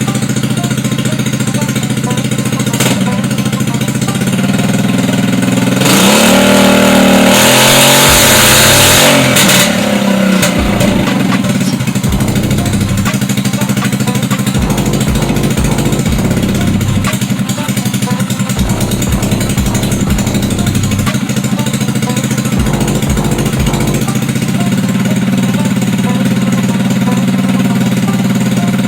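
GY6 150cc single-cylinder four-stroke scooter engine running on a bench with a PWK 28 mm slide carburettor, idling steadily. About six seconds in it is revved up for about three seconds, then drops back to idle.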